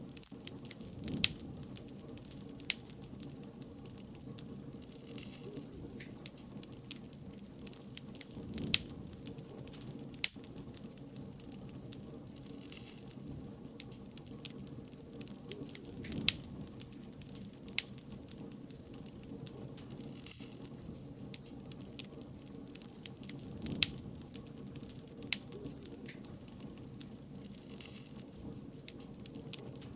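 Wood bonfire crackling: irregular sharp pops every second or two over a steady low rush of burning.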